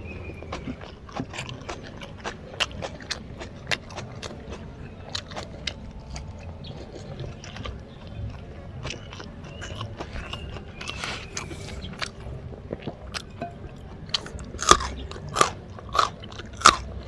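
Close-up chewing of fried rice with raw lalapan (white cabbage and jengkol), with many small crisp crunches throughout. Near the end comes a run of louder crunches, about two a second: crunchy bites of raw jengkol.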